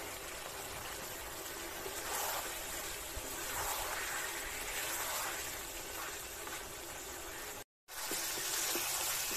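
Chicken pieces and fried potatoes sizzling steadily in oil in a karai as the meat is browned with its spices. The sound drops out to silence for a moment about eight seconds in.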